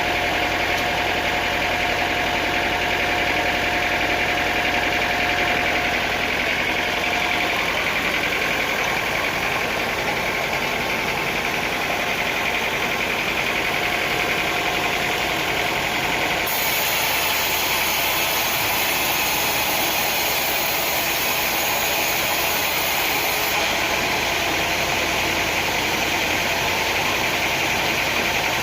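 Sawmill machinery running steadily, an engine-like mechanical drone with a thin whine that stops about seven seconds in.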